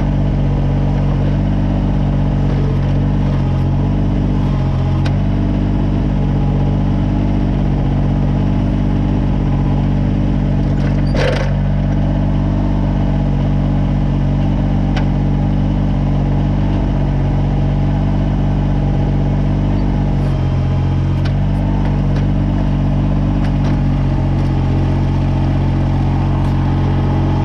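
Kubota BX22 compact tractor's three-cylinder diesel engine running steadily, its note dipping briefly a few times. A single sharp knock about eleven seconds in.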